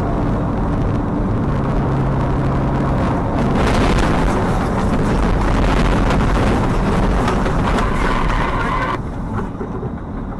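Car driving: steady engine and road noise, with the tyre and wind hiss growing louder about three and a half seconds in and dropping away near the end.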